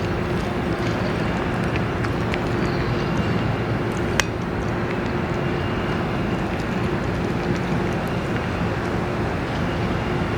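Steady outdoor background noise with a constant low hum, like distant traffic or machinery, broken by one sharp click about four seconds in.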